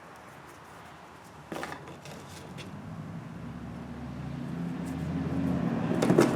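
Low engine or motor hum that grows steadily louder over the last few seconds, with a sharp knock about a second and a half in and another near the end.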